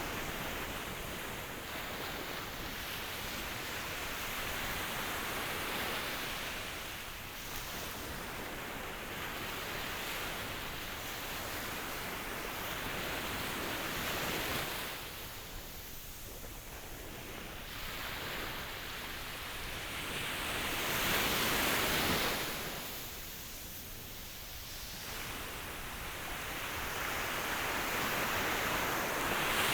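Ocean waves washing onto a shore in a continuous hiss that swells and ebbs, with a louder surge a little after the middle and another near the end.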